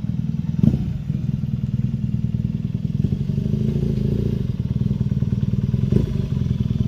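BMW R nineT's 1200cc boxer-twin engine idling steadily, with two brief knocks, one about a second in and one near the end.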